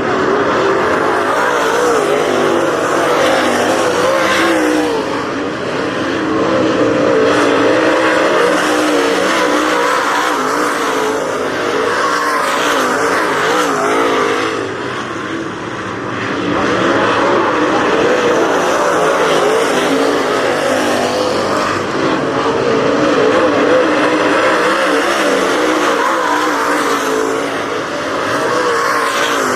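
Several race car engines running hard on a dirt oval as a pack laps the track, the engine note wavering as cars throttle through the turns and pass by. The sound dips briefly about halfway through and again near the end.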